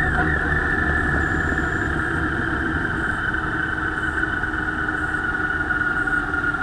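Motorcycle engine running at low speed, heard through an onboard camera, with a steady whine whose pitch falls slowly as the bike eases off in town traffic.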